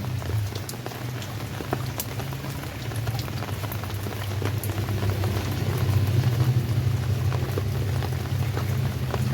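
Steady rain, with many separate drops clicking on a surface over a constant low rumble.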